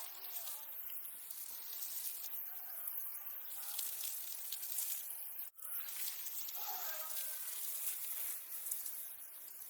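A steady high hiss, with a brief dropout about halfway through.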